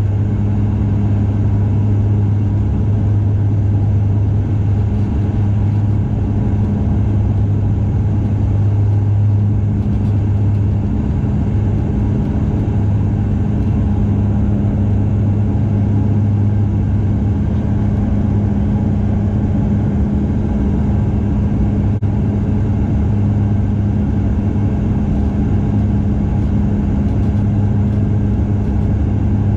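Bombardier Dash 8 Q400 turboprop heard from inside the passenger cabin: its propellers and engines give a steady low drone with a second tone an octave above, over an even rumble.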